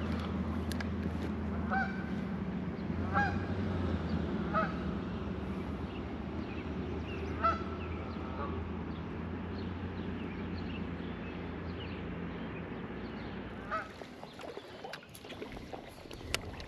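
Several short honking bird calls, spaced a second or more apart in the first half, over the steady rush of white water; the rushing drops away near the end.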